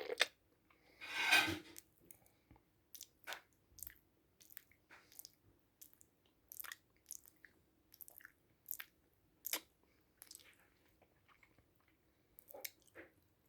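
Close, crunchy chewing and eating noises from a person's mouth: a longer crunch about a second in, then sharp single crunches spaced irregularly, roughly one or two a second.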